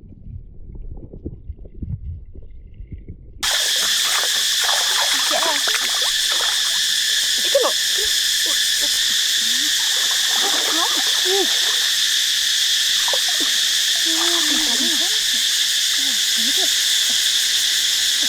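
Low, muffled sounds, then about three seconds in a sudden switch to a loud, steady insect chorus buzzing in the forest. Short, low chirping calls sound over it throughout.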